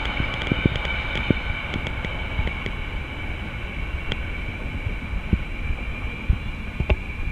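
Passenger train running along a railway line: a steady rumble with an even, high whine over it and scattered light clicks.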